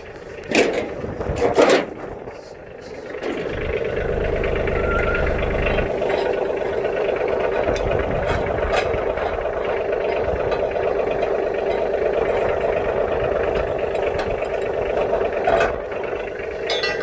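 Two loud clatters near the start, then a tractor engine running steadily.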